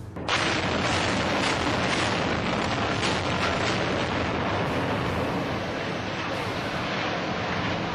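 Controlled demolition of a building: a sudden loud blast about a third of a second in, then a continuous dense rumble of the structure collapsing and debris falling, with no letup.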